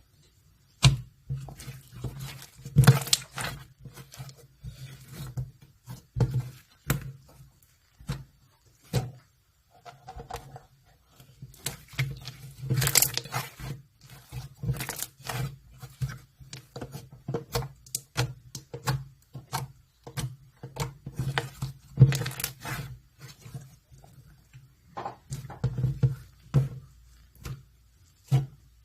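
Unicorn slime being squished, pressed and pulled by hand: irregular sticky pops and clicks with short squelching noises, some pops sharper than others.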